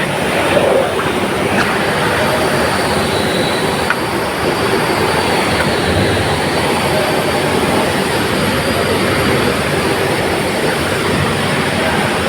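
Steady loud mechanical rumble and hiss with a faint high whine and a few light clicks.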